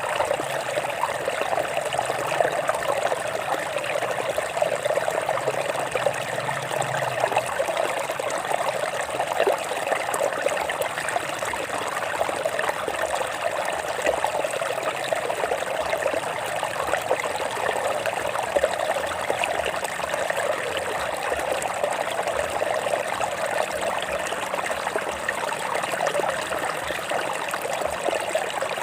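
Water of a stream running over rocks: a steady, even trickling flow.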